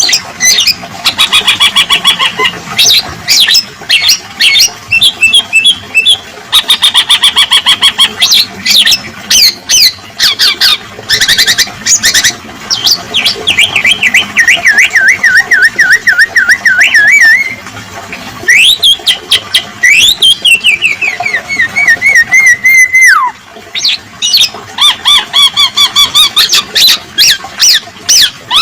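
Black-naped oriole (kepodang emas) song-training recording playing loudly without a break. It is a busy medley of fast chattering clicks, trills and wavering whistles, including a long wavering whistle that slides down about halfway through. Calls of other birds are mixed in as fill-in song.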